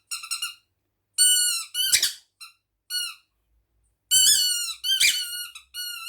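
Squeaker in a toy squirrel squeezed again and again, giving a string of high-pitched squeaks: a few short ones, a longer squeal about a second in, then a run of squeaks near the end. The squeaks stand in for the squirrel's sneeze.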